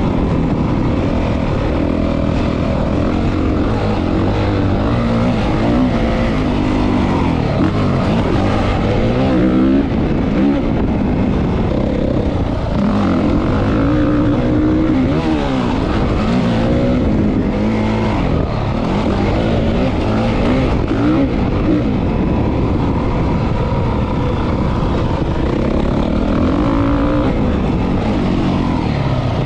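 Dirt bike engine revving up and down over and over, its pitch climbing and dropping every second or two, as it is ridden around a motocross track.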